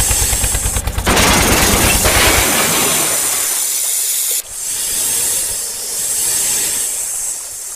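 Loud hissing comes in about a second in over an engine running with a fast, even chug. The engine stops about two and a half seconds in, and the hiss carries on, thinner and higher after about four and a half seconds.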